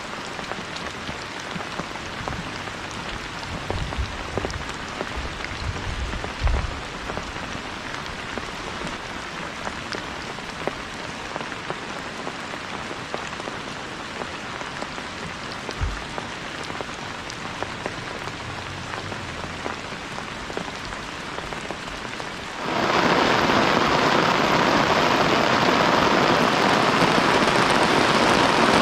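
Steady rain falling, with a few dull low thumps in the first half. About three-quarters of the way through, the sound jumps suddenly to a much louder, denser rush.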